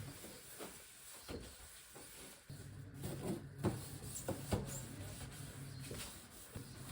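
Scattered light knocks and clunks of containers and fridge or cupboard doors being handled while a fridge is emptied, with a steady low hum starting about two and a half seconds in.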